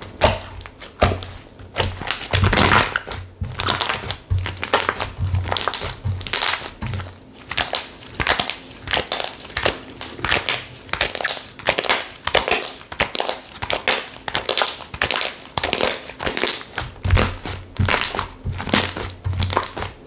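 Slime being squeezed and pressed by hand, making dense, irregular crackling and crunching pops over and over.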